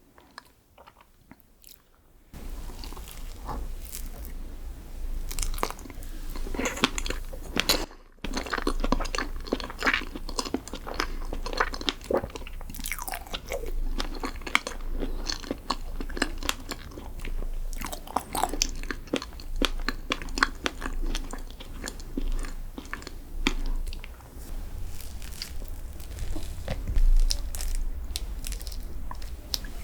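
Close-miked chewing and crunching of a crisp chocolate dessert, starting suddenly about two seconds in and continuing as a dense run of crackly crunches with a brief pause near the middle.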